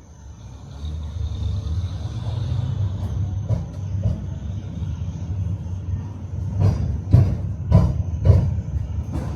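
Tram running along its rails with a steady low rumble that grows louder about a second in. Near the end come four loud wheel knocks about half a second apart, the clatter of the wheels over rail joints or points.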